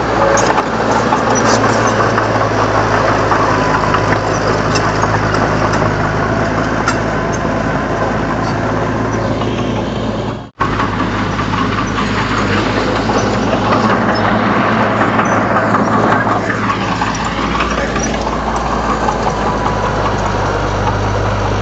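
Komatsu D31 bulldozer's diesel engine running steadily while working. The sound breaks off for an instant about halfway through.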